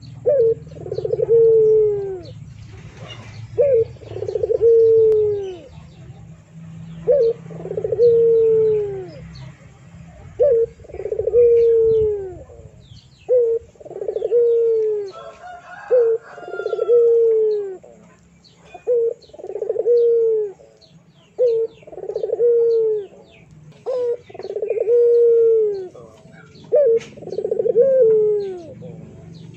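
A bird calling over and over, about every three seconds: each call is a short note followed by a longer falling note. Other small birds chirp faintly.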